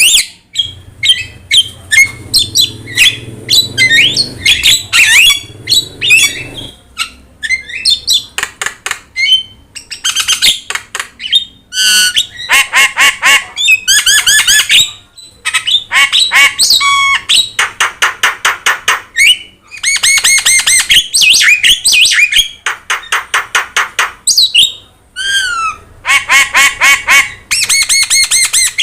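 Javan myna singing non-stop: a rapid medley of harsh squawks, chattering runs of fast repeated notes and clear whistles, with only short pauses between phrases.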